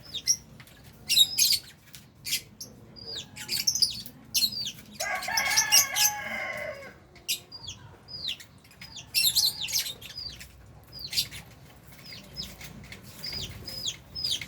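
A colony of Fisher's and albino lovebirds chirping and screeching in rapid, shrill bursts. About five seconds in, a lower call falls in pitch for roughly two seconds.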